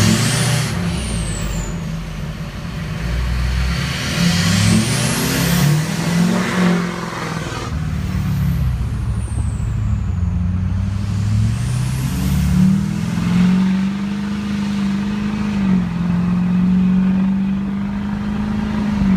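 LBZ Duramax 6.6-litre turbo-diesel V8 in a 2006 Chevrolet Silverado 2500, running through an unmuffled 5-inch straight pipe. The engine pitch rises and falls during the first half, then holds steady at a higher drone for the rest, with one slight dip.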